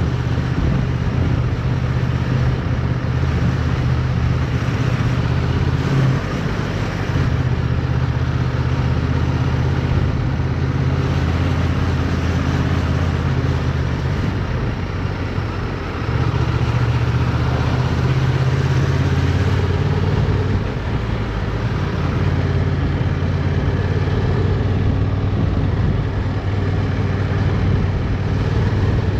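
Motorcycle engine running under way, its note steady for stretches and shifting in pitch a few times as the throttle is closed and reopened, with wind noise rushing over the onboard microphone.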